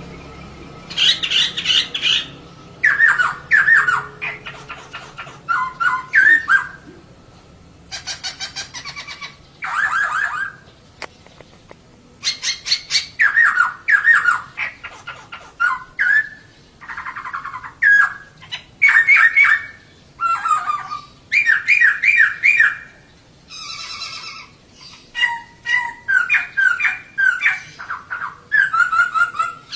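Female poksay (laughingthrush) calling: bursts of quick, chattering, sliding notes, one short phrase after another every second or two.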